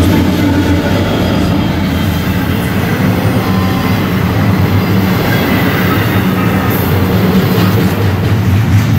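Freight train passing: a locomotive and then its freight cars rolling by on the rails, with a loud, steady rumble.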